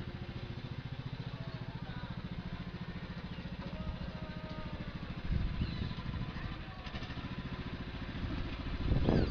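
An engine running steadily with an even low pulse, growing louder briefly about five seconds in and again near the end.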